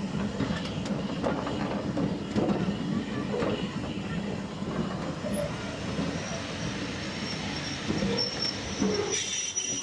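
Train rolling along the track, with scattered clicks from the wheels over the rails. Near the end a high, steady wheel squeal comes in suddenly.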